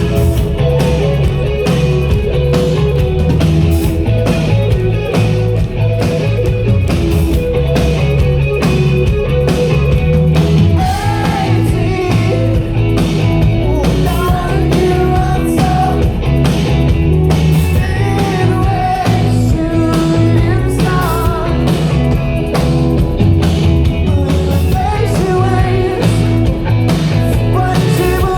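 Rock song played by a full band with drums and guitar, with a singing voice coming in about ten seconds in.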